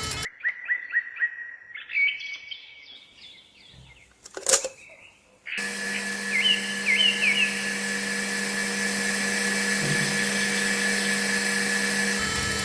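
Small birds chirping: short rising chirps about four a second, then higher chirps and a single sharp click. After a cut, a steady electrical-sounding hum runs with a few more chirps.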